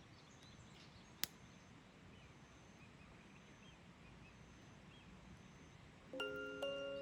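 Faint outdoor ambience with quiet, short high bird chirps and a single sharp click about a second in. Gentle background music with a bell-like melody comes back in near the end.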